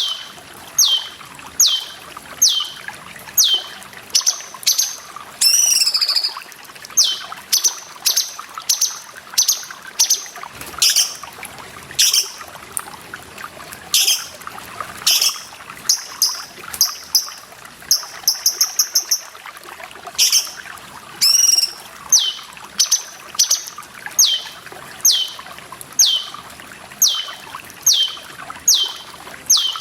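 Cucak cungkok bird calling over and over, a sharp high note sweeping downward about once a second, with a quick rattle of notes partway through and a couple of swooping flourishes. Steady trickling water runs underneath.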